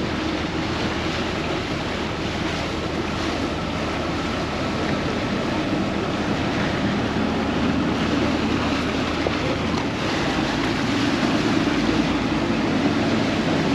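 Vaporetto water bus underway: a steady engine drone with water rushing past the hull and wind on the microphone, growing a little louder near the end.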